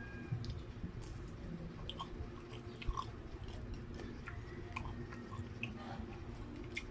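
Close-up chewing of fried Spam and rice, with scattered small wet clicks and mouth noises over a steady low hum.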